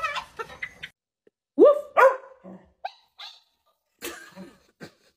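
A dog barking twice in quick succession, followed by a few shorter, fainter sounds.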